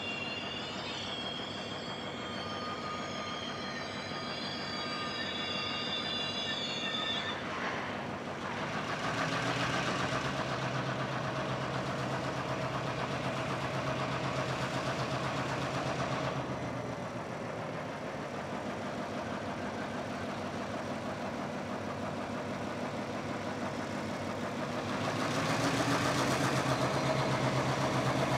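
Train wheels squealing against the rails, several high whining tones at once, for the first seven seconds or so as the rail train rolls slowly past behind GWA 422 class 2207 and GM class streamliner GM37. After that the diesel locomotives' engines grow louder over the rumble of the wheels, from about eight seconds in to sixteen and again near the end.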